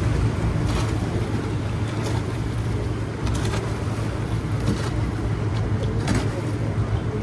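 Motorboat engine running with a steady low drone, with a few light knocks over it.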